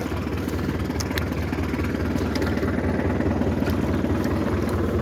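Tractor engine running steadily at low revs, with a few faint clicks over it.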